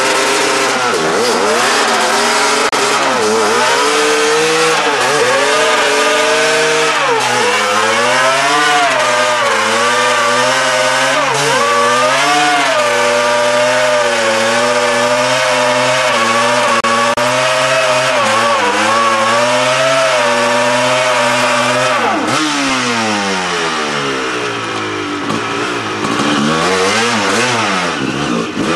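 Honda CR250 two-stroke single-cylinder dirt bike engine held at high revs during a burnout, the pitch wavering up and down as the throttle is worked. About two-thirds of the way through the revs drop, then rise and fall in a few swoops.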